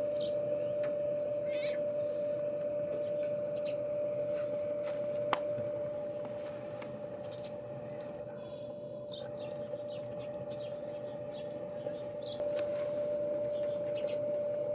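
A steady hum holds one pitch throughout, with scattered soft clicks and brief high squeaks from a Goffin's cockatoo.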